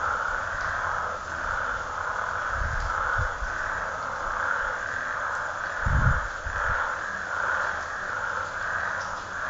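A dense, steady chorus of frogs calling at night, gently pulsing, with a few brief low rumbles about a third and two thirds of the way through.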